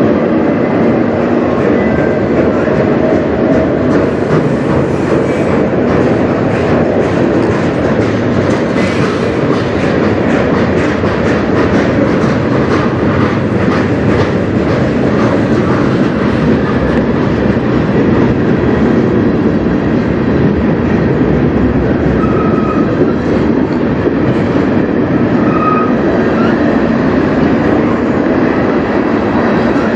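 Cars of a manifest freight train rolling past close by: a steady rumble of steel wheels on rail, with rapid clicking as the wheels cross rail joints, thickest in the first half.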